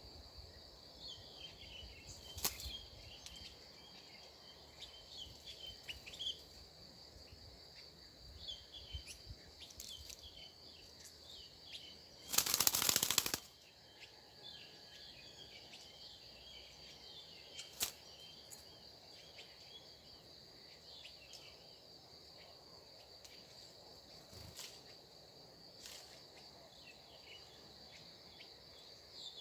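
Outdoor nature ambience: a steady high-pitched insect drone with scattered short bird chirps, a few sharp clicks, and one loud rushing burst about a second long near the middle.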